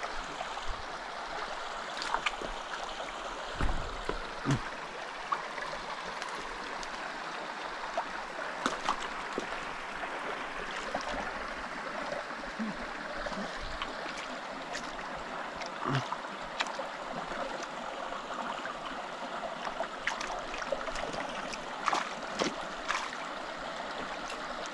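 Small mountain creek running over rocks, a steady babbling rush of water. Scattered short knocks and clicks stand out above it now and then.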